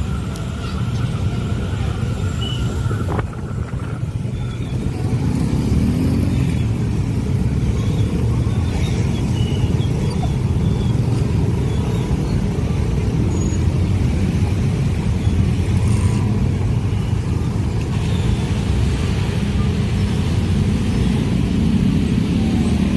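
Steady low rumble of passing vehicles, growing louder about five seconds in.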